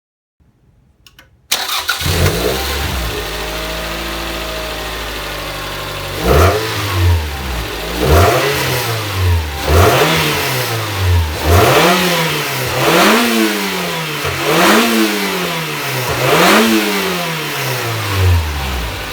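Toyota Celica ST202's 3S-GE four-cylinder engine starting about a second and a half in, idling briefly, then blipped up and back down again and again, about once every second and a half to two seconds, before returning to idle near the end. The revs rise and fall cleanly with no hesitation, the sign of a healthy engine despite its high mileage.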